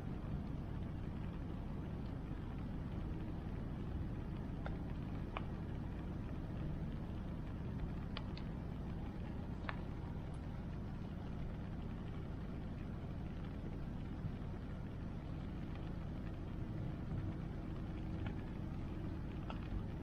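Wood bonfire crackling, with a few sharp pops here and there, over the steady low rush of the river.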